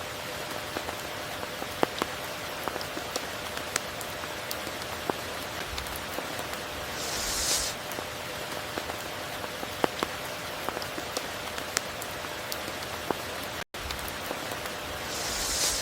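Steady tropical rain falling, an even hiss with scattered sharp drop ticks. A brighter swell of hiss rises and falls about halfway through and again near the end, and the sound cuts out for an instant shortly before the end.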